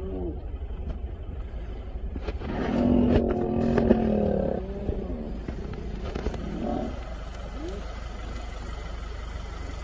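Idling vehicle engine, a steady low rumble, under a few short pitched animal calls. The loudest calls come about three to four and a half seconds in, and two brief rising calls follow later.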